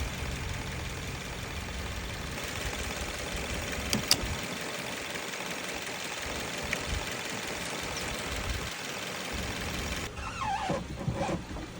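A car engine running at idle, a steady low rumble. A sharp click comes about four seconds in, after which the rumble drops away for several seconds before returning.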